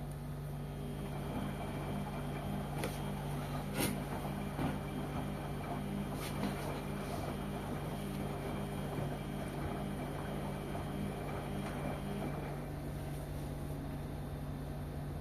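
LG washing machine running: a steady low hum, joined about a second in by a rushing noise and a high motor whine with a few clicks. The whine and rushing stop about three seconds before the end, leaving the hum.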